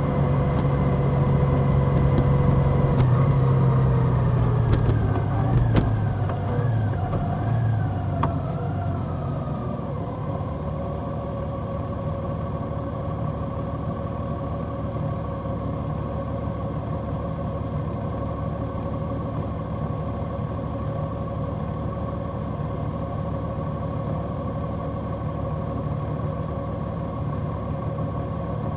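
Large motorcycle engine slowing down, its pitch falling with a few wavers over the first ten seconds or so, then running at a steady, lower note.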